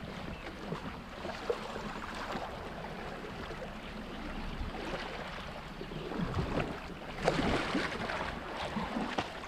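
Kayak moving down a river: flowing water and paddle splashes against the hull, with wind buffeting the microphone and a few louder splashes about six to eight seconds in.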